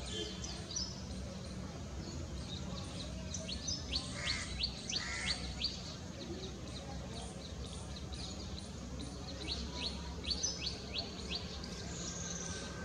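Wild birds calling in rapid runs of short, high notes, one run about four seconds in and another near ten seconds, over a steady low background rumble.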